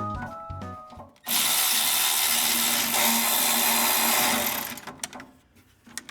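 Background music ends about a second in, and then a power tool runs steadily for about three and a half seconds as a loud, even hissing whir with a faint low hum, tapering off near the end.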